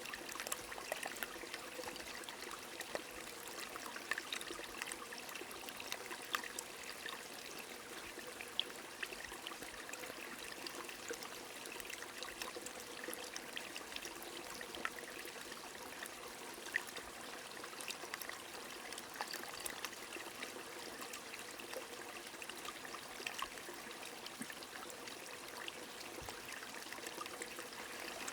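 Steady rain with a stream trickling and flowing, the water noise even throughout, with many scattered sharp ticks of individual drops.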